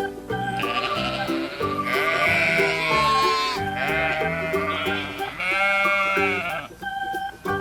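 Several drawn-out bleating calls over a steady background music track.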